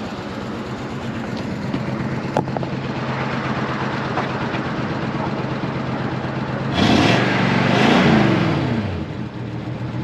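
Original Ford 302 V8 with a two-barrel carburetor idling smoothly. About seven seconds in the throttle is blipped once, and the engine rises in pitch and then settles back to idle.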